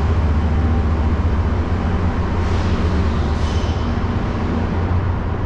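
Loud, steady low rumble of trains at a station platform, with a hazy background noise over it.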